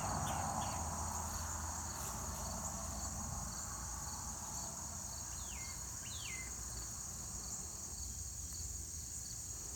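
Steady high insect chorus, crickets trilling with an even pulse, with a few short downward-sliding chirps near the start and again about five and six seconds in.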